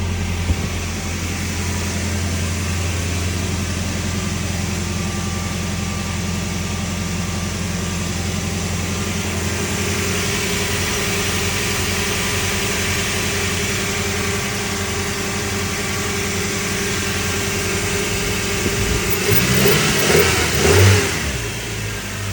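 2003 Toyota Tacoma's 2.7-litre inline-four engine running steadily at idle after a cold start, with a brief louder stretch near the end.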